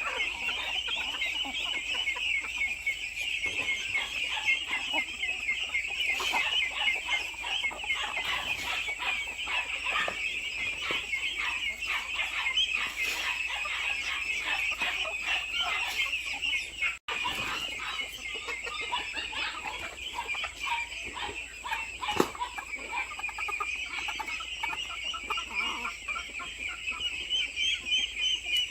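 A flock of hens clucking and chattering, many short calls overlapping without pause, with a brief break about two thirds of the way through.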